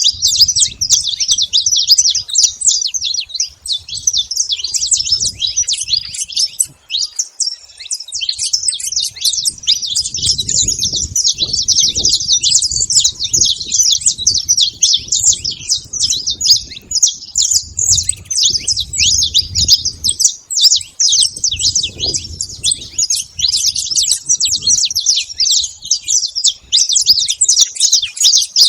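A flock of saffron finches chirping and singing together, many short calls overlapping into a dense, unbroken chatter.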